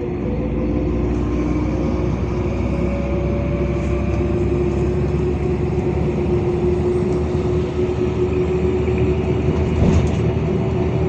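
LiAZ 5292.65 city bus under way, with a steady engine drone and a whining tone that rises slightly.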